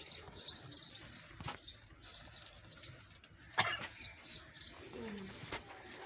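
Small birds chirping: quick, high twitters again and again, with one sharp knock about three and a half seconds in.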